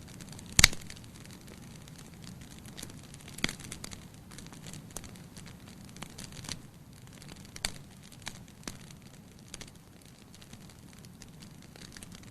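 Firewood burning in a fireplace: scattered crackles over a low steady rumble of flame, with a sharp loud pop about half a second in and two more strong pops at about three and a half and seven and a half seconds.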